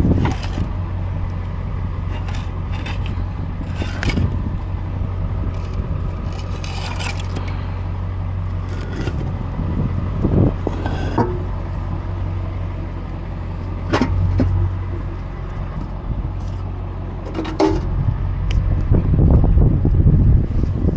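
A vehicle engine running steadily, with scattered knocks and scrapes over it. Near the end a louder rough crunching stretch comes in.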